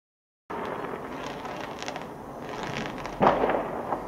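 Fireworks going off. The sound drops out completely for half a second at the start, then there is crackling, and about three seconds in a loud cluster of bangs with a smaller pop just after.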